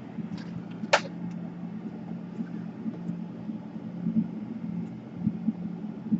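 A single sharp click about a second in and a few faint ticks from laptop parts being handled during reassembly, over a steady low hum.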